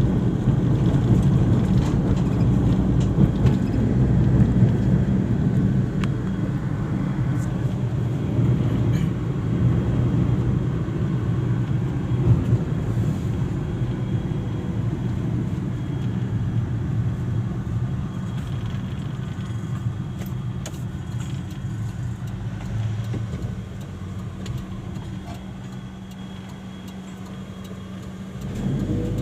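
A car driving, with steady engine and road noise. The noise falls off and quietens for the last few seconds, then picks up again.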